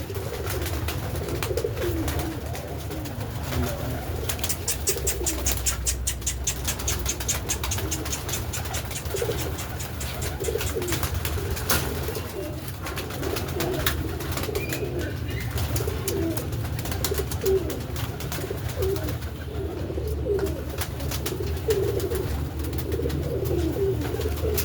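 Domestic pigeons cooing over and over, with scattered sharp clicks and a quick run of ticks a few seconds in, over a steady low hum.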